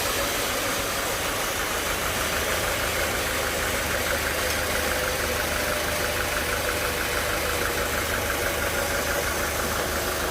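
Sawmill machinery running steadily, a continuous mechanical drone with a low hum; from about two seconds in a fast, even chatter joins it.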